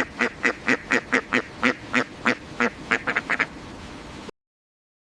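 A rapid string of short, pitched animal calls, about five a second, that cuts off abruptly about four seconds in.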